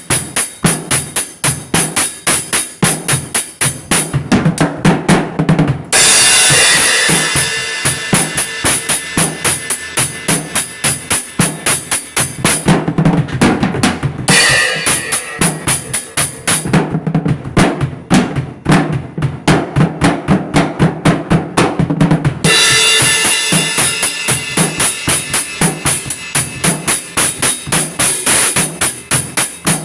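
Drums playing a fast, steady beat of about four strokes a second. A cymbal crash rings over the beat at about six seconds in and again at about twenty-two seconds.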